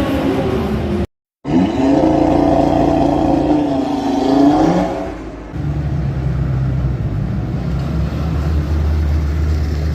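Sports car engines revving and pulling away, cut together from separate clips. There is a brief dead-silent gap about a second in, then a rev whose pitch climbs and falls, and from about halfway a steadier, deeper engine drone.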